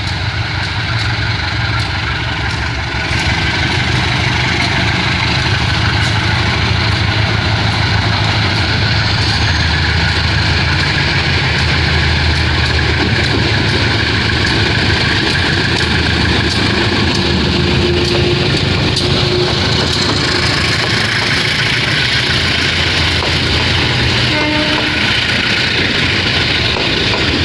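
Diesel-hauled passenger train on the move, its locomotive engine running with a steady low drone over loud wheel-and-rail noise. The sound grows a little louder about three seconds in, then holds.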